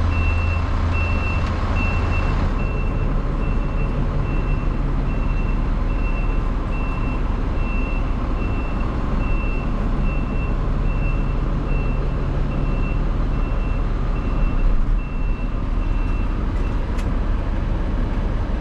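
Truck backup alarm beeping steadily over the truck's engine running; the beeping stops near the end.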